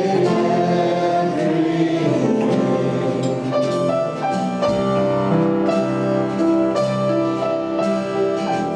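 Congregational worship music: singing over piano and keyboard, with sustained held notes.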